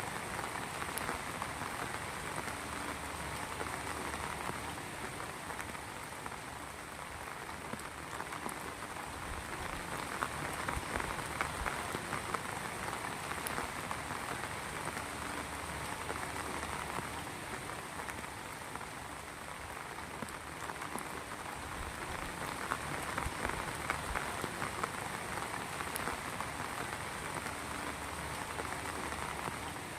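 Heavy rain falling steadily, a dense patter of drops hitting surfaces, rising and easing slightly in waves.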